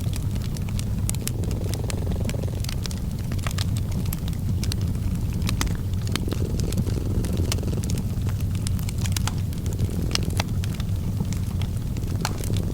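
A cat purring steadily, a low rumble that swells and eases every couple of seconds, over the frequent small crackles and pops of a wood fire.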